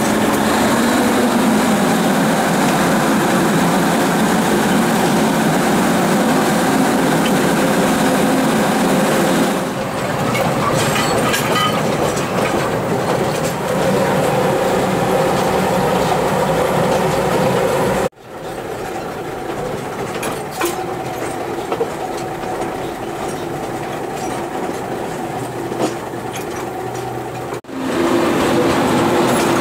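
Narrow-gauge (1067 mm) heritage train running along the line: steady rumble and rattle of the carriage wheels on the rails. The sound drops out briefly twice, past the middle and near the end, and comes back quieter after the first dropout.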